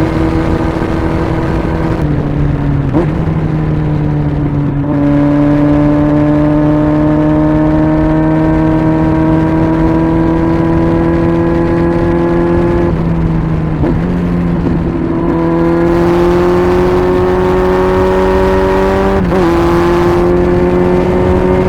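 Kawasaki Z900's inline-four engine running through an aftermarket LCI muffler under way. Its pitch climbs slowly and dips briefly several times as gears are changed.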